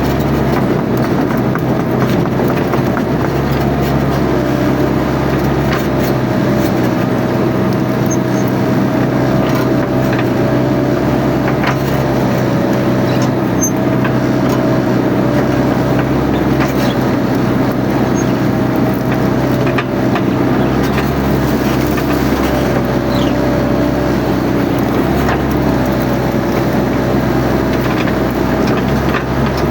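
Mini excavator's diesel engine running steadily at working speed, with a high whine that wavers slightly in pitch and a few faint sharp cracks.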